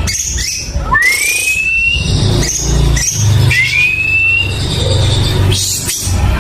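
White-rumped shama (murai batu) singing: two long rising whistles, about a second in and again about three and a half seconds in, with short higher notes between them, over a steady low hum.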